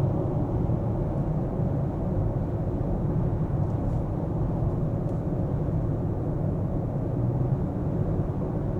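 Car driving: a steady low rumble of tyres and engine.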